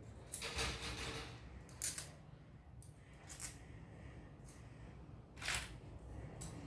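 Plastic construction-kit pieces clicking and snapping as they are handled and pressed together: a quick cluster of clicks about half a second in, then single sharp clicks every second or two.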